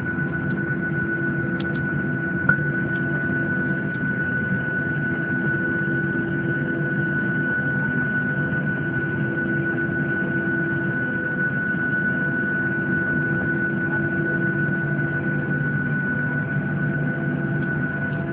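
Boeing 737-800's CFM56-7B jet engines running steadily at low power, heard inside the cabin: an even drone with a thin, constant high whine. A single short click about two and a half seconds in.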